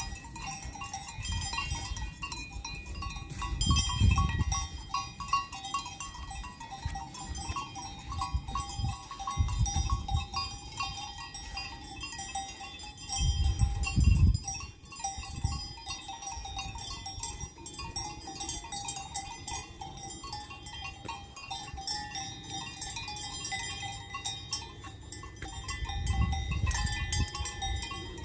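Bells on a grazing herd of livestock ringing and clanking continuously, many overlapping tones. Low gusts of wind rumble on the microphone at several moments, strongest about 4 s and 14 s in.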